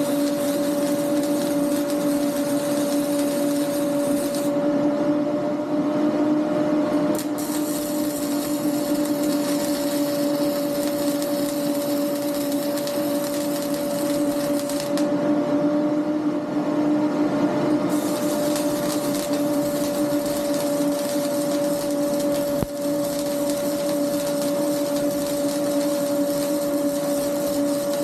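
A steady machine hum: one constant pitch with its octave over a hiss, unchanging in level or pitch throughout.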